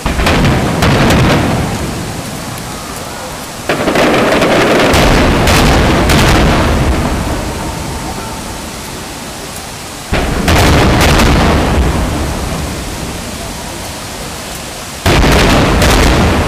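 Aerial firework shells bursting in four volleys, each a sudden boom that rolls and echoes away over several seconds, with sharper cracks among them.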